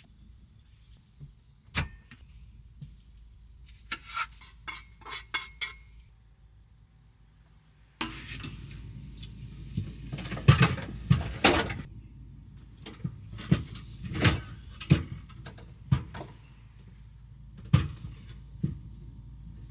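Irregular knocks and clatters of objects being handled in a small room: a few clicks and a quick run of light taps, then, after an abrupt change of background about halfway through, a busier series of louder knocks.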